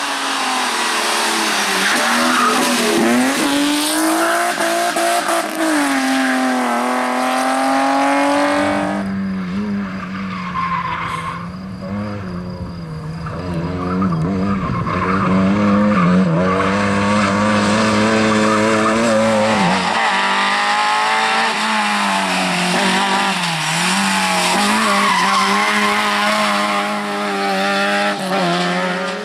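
Rally cars driven flat out: engines revving up and down through the gears, with tyres squealing and skidding. The engine sound changes abruptly about nine seconds in and again about twenty seconds in, as a different car or vantage takes over.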